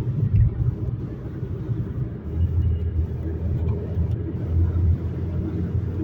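GAZelle Next van driving slowly on a test run, a low drivetrain and road rumble with uneven thuds. This is the low-speed knock, a 'туп, туп, туп', that is still present after the rear differential was refilled; the driver suspects a wheel or rim.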